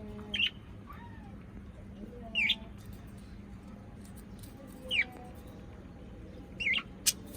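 Four short, high, squeaky animal calls, spaced about two seconds apart, then a couple of sharp clicks near the end.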